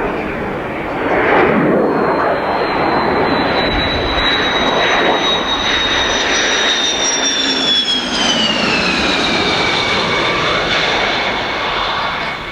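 F-15C Eagle's jet engines running loud, a dense roar with a high whine on top. About eight seconds in, the whine drops steadily in pitch, and the roar eases off near the end.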